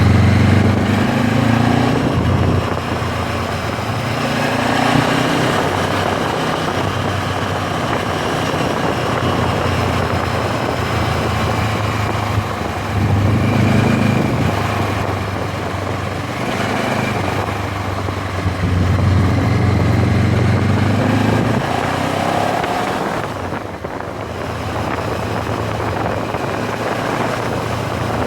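MZ 1000 parallel-twin motorcycle engine running under way, its pitch rising and falling several times as the bike speeds up and slows, with wind noise on the microphone.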